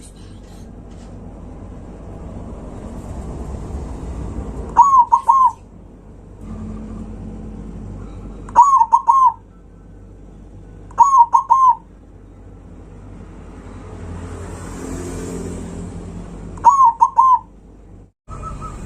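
Zebra dove (perkutut) cooing: four short, loud bouts of a few quick notes each, several seconds apart, over a low steady background noise.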